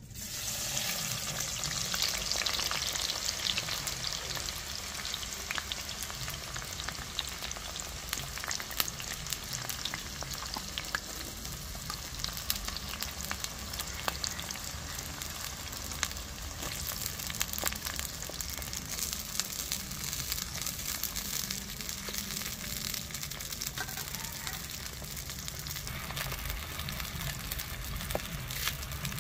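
Onions sizzling as they fry in hot oil. The hiss starts suddenly, eases slightly over the first few seconds, then carries on steadily with scattered pops and crackles.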